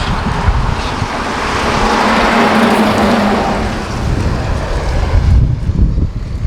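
Road traffic: a motor vehicle passes, swelling and fading about two to three seconds in, with wind buffeting the microphone throughout.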